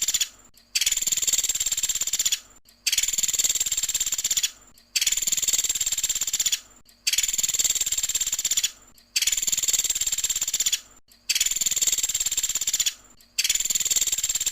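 A pelatuk sampit bird singing its rapid high trill ('tembakan'), each trill about a second and a half long, repeated at an even pace about every two seconds with short gaps, seven times.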